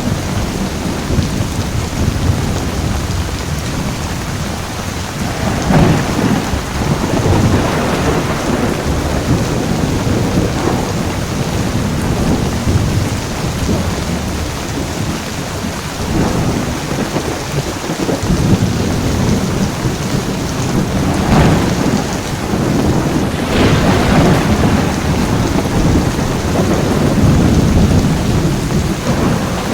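Heavy rain with thunder rumbling. Sharper thunder cracks come about six seconds in, again near eight and eleven seconds, and twice more past twenty seconds.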